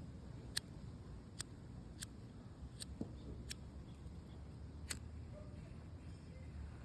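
A lighter clicked over and over, about six sharp clicks at uneven intervals, as someone tries to get a flame from a lighter that may be out.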